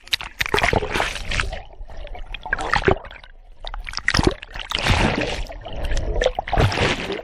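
Swimming-pool water splashing and sloshing close to the microphone in irregular bursts as someone moves through it.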